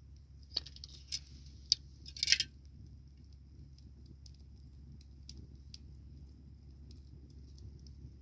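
Wood fire crackling: a few sharp pops in the first two and a half seconds, the loudest cluster about two seconds in, then only scattered faint crackles over a steady faint high hiss.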